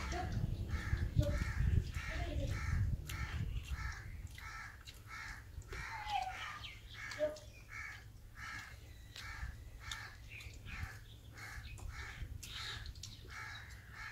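A bird calling over and over in a steady series, about two to three short calls a second, with low rumbling noise during the first few seconds.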